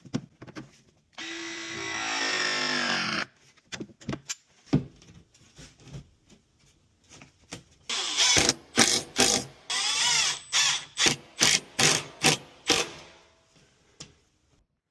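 Power drill run in a series of short trigger bursts, its motor whirring up and down in pitch, after a few scattered clicks and knocks. Guitar music plays at the start.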